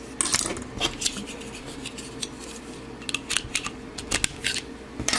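Hard plastic parts of a toy robot's blade weapon clicking and clattering as they are handled, pulled apart and fitted together. A burst of sharp clicks comes in the first second and another run of clicks in the second half.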